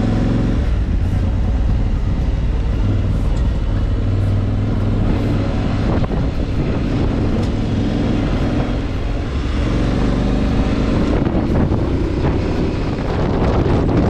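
Motorcycle engine running while riding, its note rising and falling slightly with the throttle, under a steady rush of noise.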